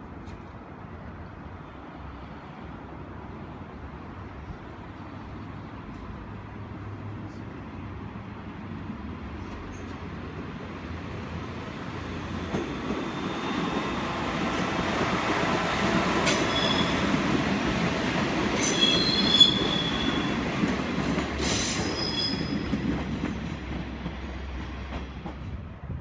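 A diesel railcar train approaches and passes, its engine and wheel rumble building from about halfway in. As it goes by, the wheels squeal briefly and high, with a few sharp clacks over the rail joints, and the noise then falls away.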